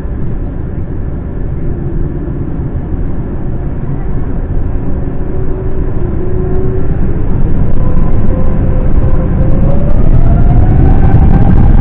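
Airbus A350 cabin noise as its Rolls-Royce Trent XWB engines run up: a steady low rumble growing louder, with an engine whine rising in pitch through the second half.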